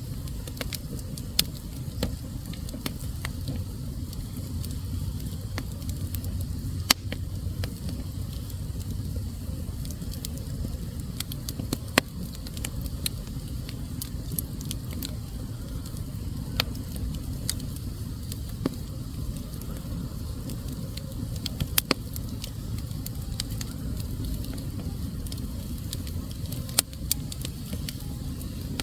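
Fire burning in a fireplace: a steady low rumble of flames with irregular sharp crackles and pops, a few of them louder snaps.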